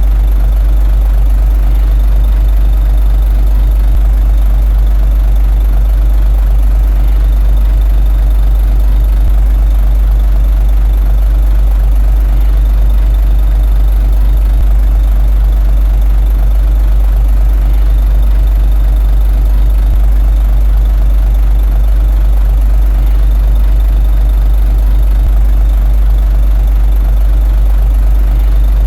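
Komatsu D21A bulldozer's diesel engine running steadily, with a deep, even low rumble and no change in speed.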